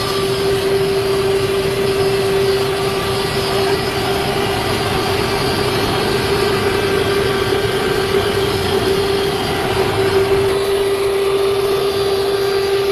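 Vertical pulverizer grinder running steadily: a loud, even machine rush with one strong steady hum.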